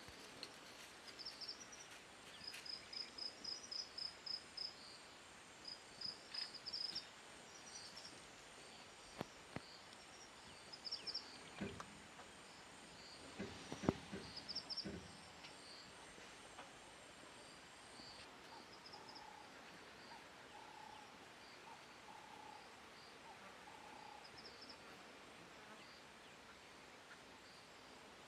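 Quiet bush ambience: a bird gives quick runs of high chirps through the first half over a thin, steady, high insect whine that stops partway through. A few soft knocks come near the middle, and faint lower repeated calls follow later.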